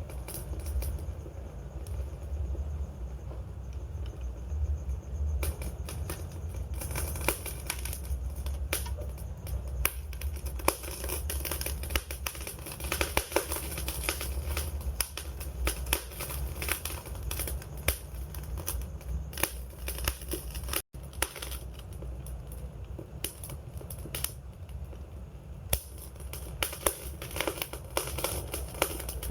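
Campfire burning: a steady low rumble of flames under frequent sharp wood crackles and pops. The crackling is sparse at first and grows busy from about five seconds in. The sound cuts out for an instant about two-thirds of the way through.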